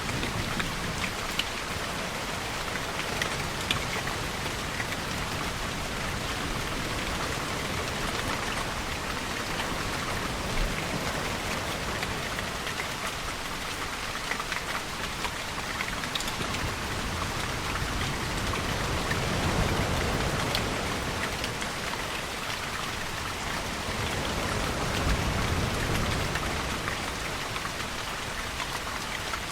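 Steady rain falling, with many fine drops ticking on a surface. A deeper swell of sound rises and falls twice, in the middle and toward the end.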